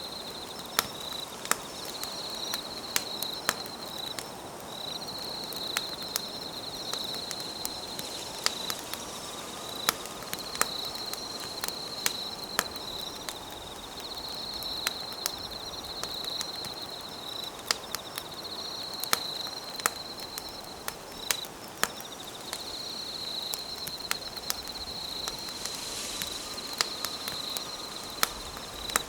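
Wood campfire crackling with irregular sharp pops, over a steady chorus of insects trilling high in repeated phrases of a few seconds each.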